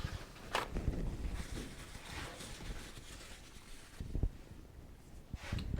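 Metal fork parts being handled on a workbench: a sharp click about half a second in, then rubbing and scraping and a few dull knocks.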